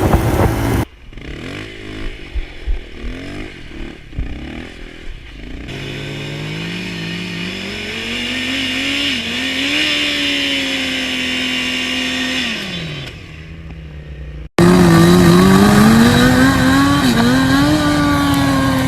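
Motorcycle engines being ridden. After scattered small clicks and knocks, one bike's engine revs up and holds a steady note for several seconds, then drops away. A sudden switch follows to a loud, wavering engine note with rushing noise, as heard riding on the bike.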